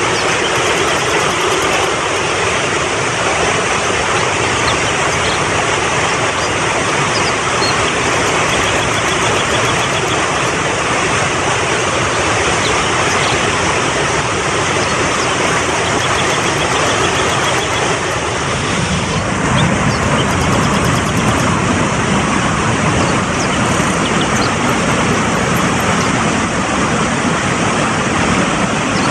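Mountain stream rushing fast over rocks, a loud, steady roar of water that gets deeper about two-thirds of the way through.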